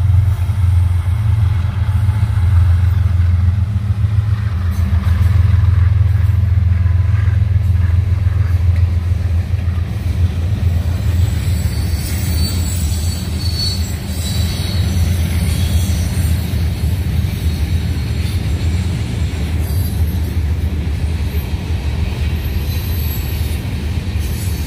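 Norfolk Southern freight train rolling past: a loud, steady low rumble of the train and its freight cars on the rails.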